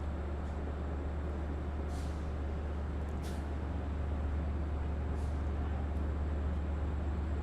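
EMD DM30AC diesel locomotive idling with a steady low hum while the train stands at the platform, with three short hisses of air from the train's air system.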